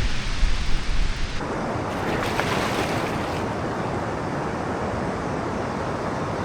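Wind buffeting the microphone, then about a second and a half in, an abrupt switch to the steady rushing of a waterfall.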